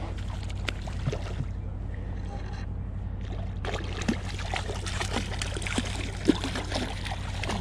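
A steady low motor hum, with splashing and crackling water joining it about halfway through.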